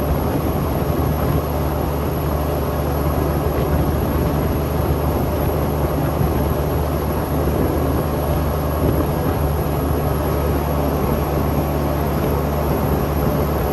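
Cummins X15 diesel engine of a Kenworth T800 truck running steadily under load, pulling up a hill, a constant deep drone.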